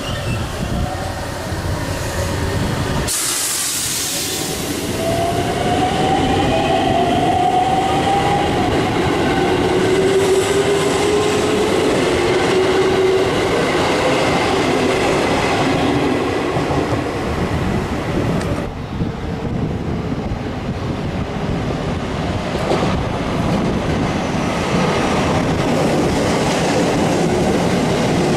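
Electric train running on the rails, a steady rumble with whines that rise in pitch over several seconds.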